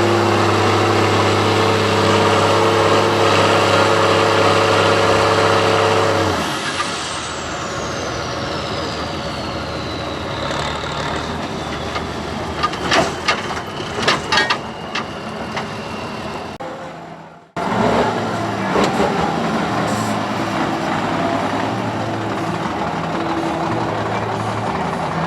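Truck-trial truck's diesel engine running hard, then easing off about six seconds in, with a high whine that falls steadily in pitch over several seconds. A few sharp clicks or knocks follow, then after an abrupt cut a truck engine runs on more steadily.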